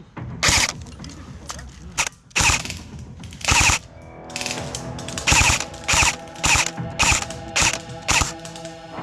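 Airsoft electric guns firing short full-auto bursts, each a rapid mechanical rattle, about a dozen bursts in quick succession. Background music with steady tones comes in about halfway through.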